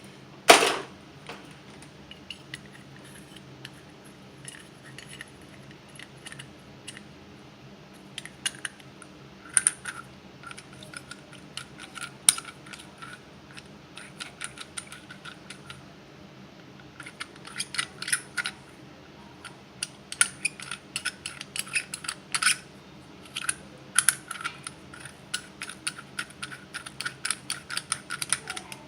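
Small metal parts of a Hoffman #7 steam radiator valve clicking and clinking as they are handled and fitted together by hand. A sharp knock comes about half a second in, and quick runs of light clicks follow through the second half.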